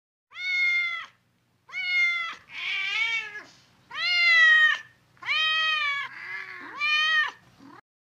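Cat meowing about eight times in quick succession, each meow a short arching cry, two of them rougher and harsher, as a sound effect.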